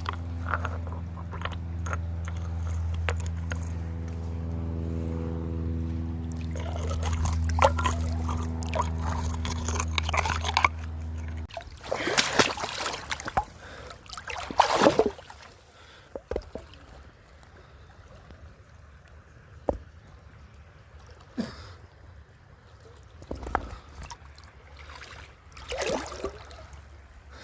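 Water sloshing and splashing in irregular bursts, loudest a few seconds after the hum stops. A steady low mechanical hum runs underneath at first and cuts off suddenly about a third of the way in.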